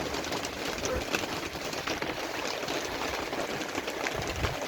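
Heavy rain falling steadily, an even hiss with many small drop patters.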